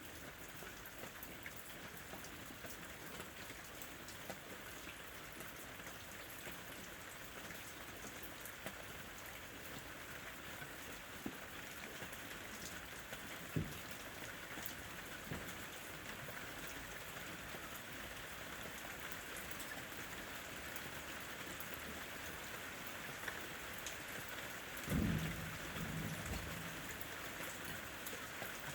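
Ambient recording of steady rain falling, an even patter. Near the end a brief low rumble rises and fades over a second or so.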